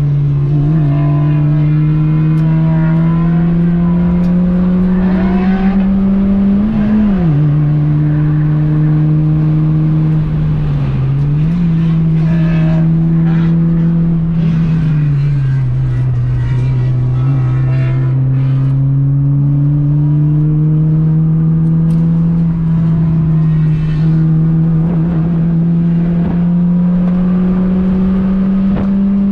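Honda Fit's 1.5-litre four-cylinder engine at full throttle on track, heard from onboard. The pitch climbs slowly through each gear and drops sharply at each gear change, several times.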